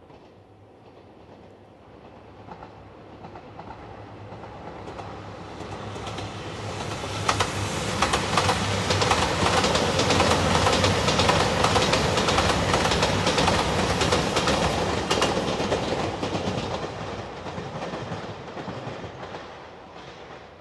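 A train passing at speed. Its sound builds gradually, peaks in the middle with sharp clacks of the wheels over the rail joints, then fades away.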